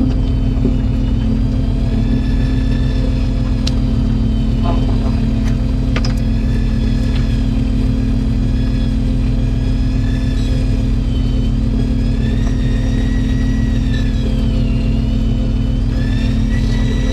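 Boat engine running steadily, with the high whine of a Shimano Dendou-maru 1000H electric reel's motor winding over it. The whine's pitch wavers up and down as the reel hauls line under load, with a few light clicks along the way.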